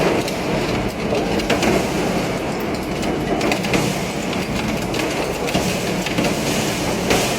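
Industrial metal shredder grinding scrap metal: a steady, dense grinding rumble broken by scattered sharp cracks and clanks.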